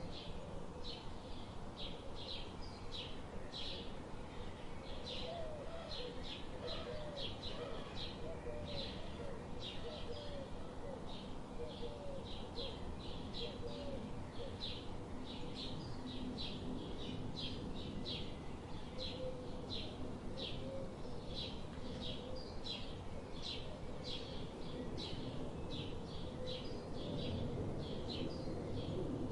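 Birds chirping: a steady series of short high chirps, about two a second, with lower warbling calls mixed in through the middle.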